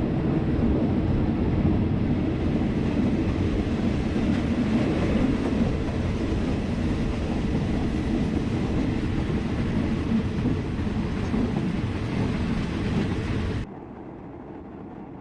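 Passenger train running on the Death Railway, a steady loud rumble. Near the end it cuts off abruptly to a much quieter, duller sound.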